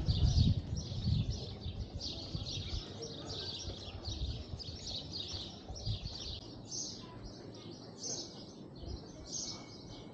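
Small birds chirping in quick, high-pitched repeated calls, two to three a second, with a low rumble in the first second or so.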